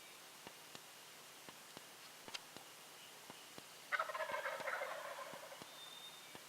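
Wild turkey tom gobbling once, about four seconds in: a rapid rattling call lasting about a second and a half that trails off.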